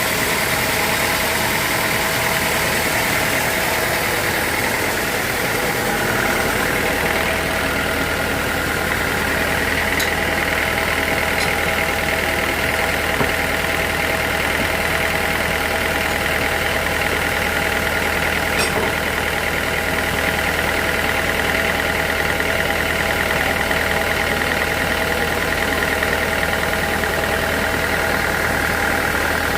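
Sawmill machinery running steadily, a constant engine-like drone with a high whine, and a few faint clicks.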